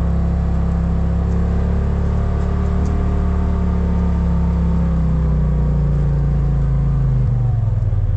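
A vehicle's engine running steadily under way, with a low even drone, its pitch dipping slightly near the end.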